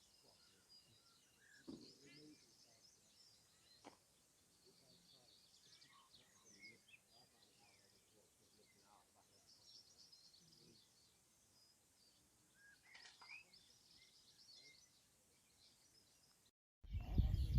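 Faint birdsong of scattered chirps and trills over quiet lakeside ambience. Near the end the sound drops out briefly, then a loud low rumbling noise begins.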